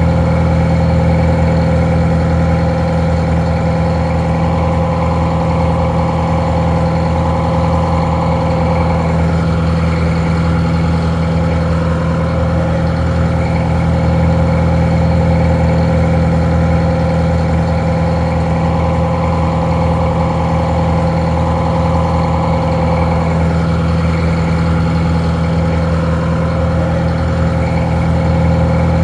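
Detroit Diesel 4-71 two-stroke diesel engine idling steadily, a little muffled.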